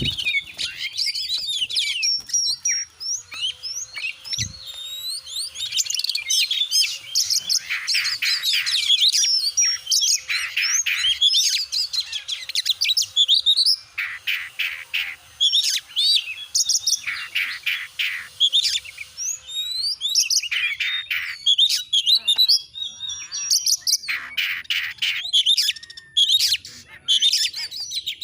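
Oriental magpie-robin (kacer) in full song: a long, loud run of varied whistles, sliding notes and fast trills of repeated chirps, with only brief breaks.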